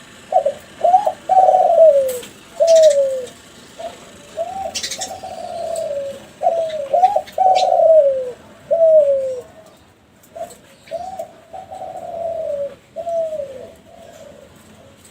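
Kelantan-type spotted dove (derkuku) cooing in about four phrases: each phrase has a couple of short notes followed by longer coos that slide down in pitch.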